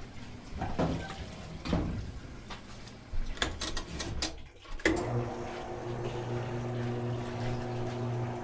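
A few knocks and clatters over running water, then about five seconds in a steady hum starts: a washing machine's drain pump emptying a full tub into the floor drain to test that it drains.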